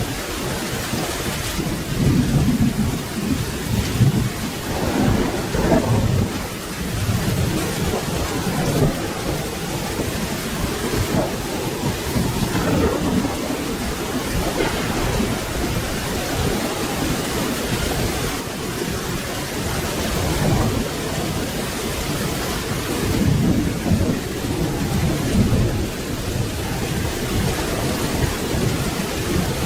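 Steady rain falling, with low rumbles of thunder swelling and fading several times through it.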